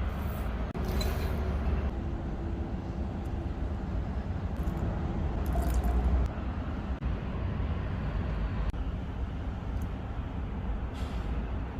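Steady low background rumble with three short hisses, at about one second, five and a half seconds, and near the end.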